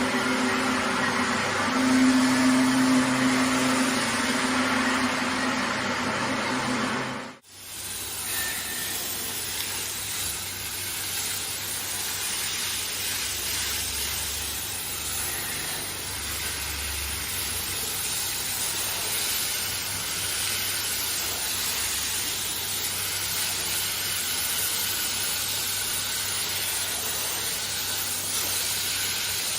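A cleaning machine's motor runs with a steady hum. About seven seconds in it cuts off abruptly, and a steady hiss of water spray with a low hum beneath takes over for the rest.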